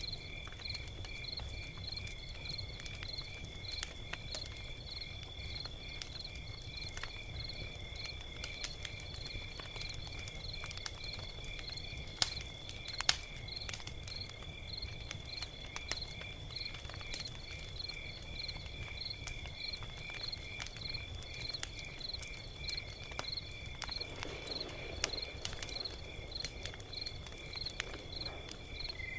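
Log fire crackling with scattered sharp pops, two louder ones about twelve and thirteen seconds in, over a low steady rumble. Crickets chirp steadily throughout, a high trill with pulsed chirps about twice a second.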